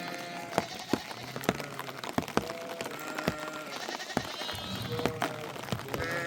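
Sheep and goats of a flock bleating, several overlapping calls, over scattered sharp taps and knocks.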